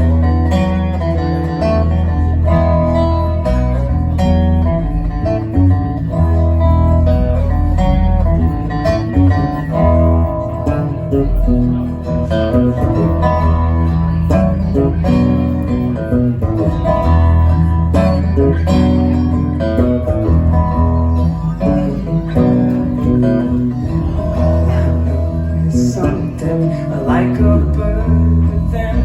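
A live band playing, led by guitar over a steady, heavy bass line.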